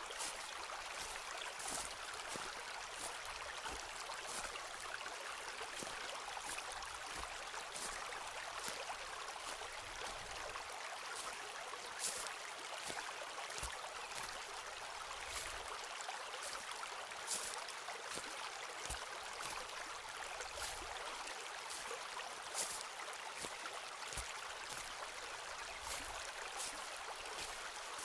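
Footsteps walking on a forest path, short regular crunches over the steady rush of a nearby stream.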